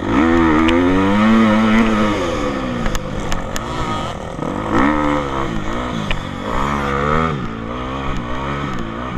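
Motocross bike engine revving hard: it climbs sharply at the start and holds for about two seconds, then drops off, followed by several shorter rises and falls as the rider accelerates and backs off the throttle.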